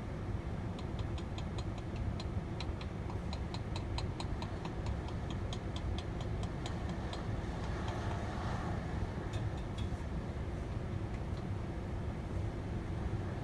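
Rapid metallic tapping, about four strikes a second for roughly six seconds, then a few single taps: the truck driver hammering on his truck's engine because the starter won't turn it over. Under it runs a steady low vehicle rumble.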